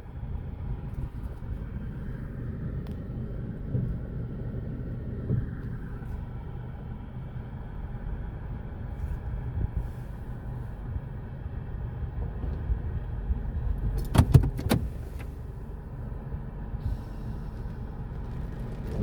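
Steady low rumble of a car in an all-cloth automatic car wash, with a quick run of sharp knocks about two-thirds of the way through.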